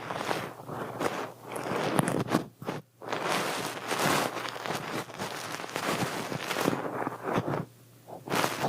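Close, crackly rustling with many small clicks and taps, dropping out briefly about two and a half seconds in and again near the end.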